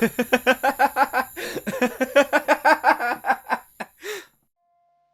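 A man's long, rapid laugh, about six 'ha' syllables a second, ending with a breath a little after four seconds in. Under it runs the steady high chirring of night-forest insect ambience, which stops with the laugh.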